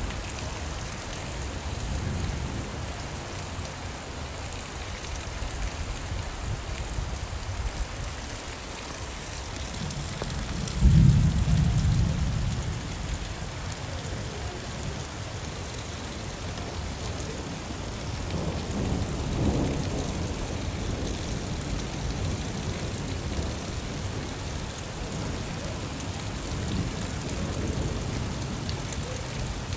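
Steady rain falling, with rolling thunder. The loudest clap breaks in suddenly about eleven seconds in and rumbles away, and fainter rumbles follow later.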